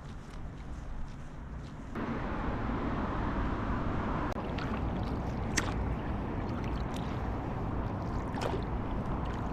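Water gurgling and splashing around a kayak as it is paddled, with a sharp tick every second and a half or so. The sound gets louder abruptly about two seconds in.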